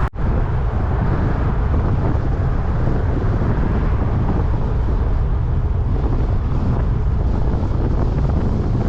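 Wind rushing over the microphone of a camera on a moving road bike: a steady low rumbling noise that cuts out for an instant just after the start.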